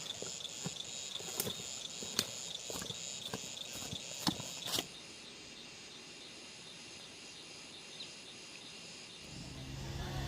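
Insects trilling in a high pulsing chorus, about three pulses a second, with scattered sharp clicks. The chorus cuts off about halfway, leaving a quiet steady hiss, and a low engine hum comes in near the end.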